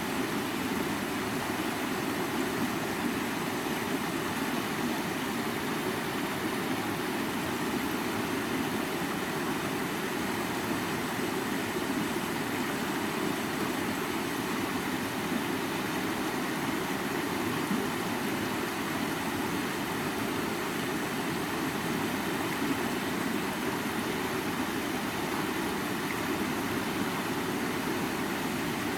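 River water flowing steadily, an even, unbroken sound that does not change.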